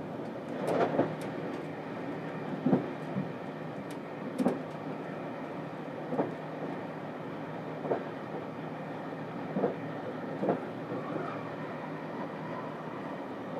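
Interior running noise of a JR Kyushu 787 series electric train heard inside its Green private compartment: a steady rumble with a sharp thump from the wheels on the track every one to two seconds, the loudest about a second in and near three seconds in.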